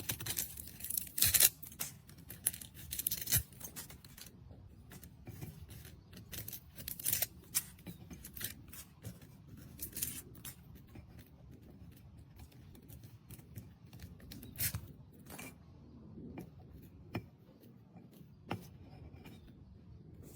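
Irregular series of sharp snips and clicks with crisp rustling, from hands working on a succulent and its pot. The loudest strokes come about a second in and again around three seconds in.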